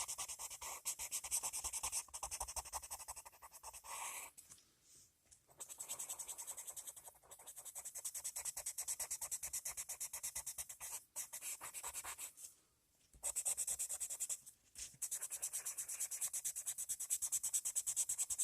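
Coloured pencil shading back and forth on paper in quick, even strokes, several per second, scratchy and hissy, in runs of a few seconds broken by short pauses.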